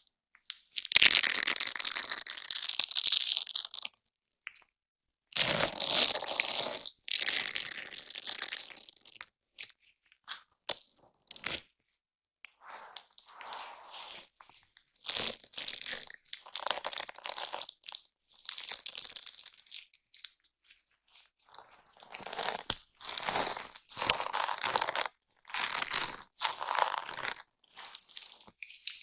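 A foam brush rubbing over a microphone up close, making a crunchy, scratchy noise in strokes. The first strokes run several seconds each; later ones are shorter and quicker, with brief silences between them.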